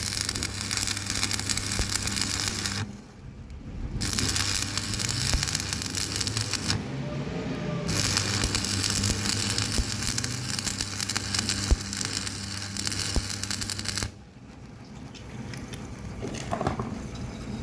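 Electric arc welding: the arc crackles steadily over a low electrical hum, in runs that break off for about a second around 3 s in and stop about 14 s in.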